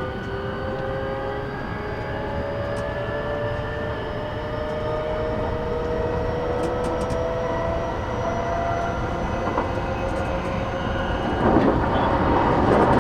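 E233 series 8000 electric train heard from inside the car: the traction motors whine, climbing slowly in pitch as the train gathers speed, over a steady rumble of wheels on rail. Near the end a louder rushing noise sets in.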